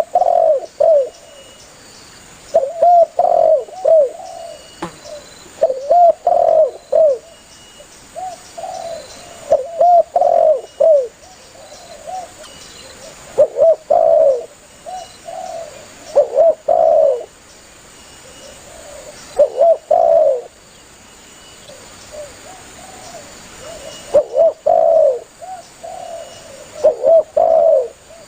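Spotted dove (tekukur) cooing: a male calls persistently, repeating phrases of a few arching coos roughly every three seconds, with a longer pause about two-thirds of the way through.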